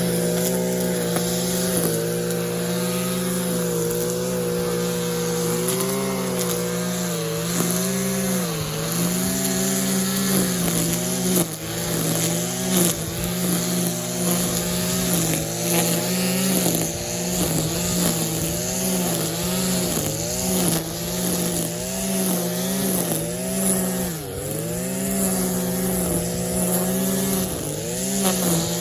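Stihl KM 94 RC combi-engine's small two-stroke engine running at high revs with a line-trimmer head. Its pitch dips briefly about once a second as the line cuts into grass and loads the engine. The engine is freshly rebuilt and running well.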